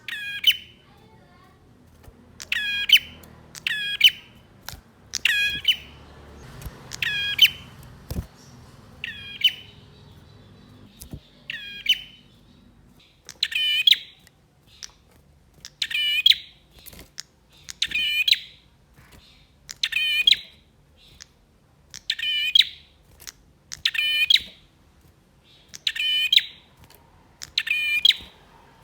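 A male prinia (prenjak) calling over and over: about fifteen short, loud, sharp chirps, one every one to two seconds. This is the vigorous singing of a male in full song.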